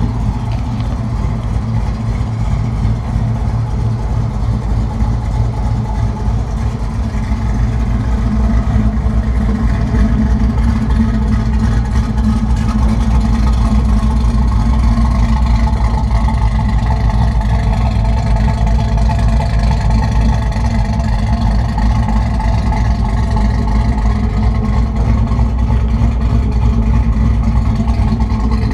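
Truck engine running steadily, getting a little louder about eight seconds in and holding there.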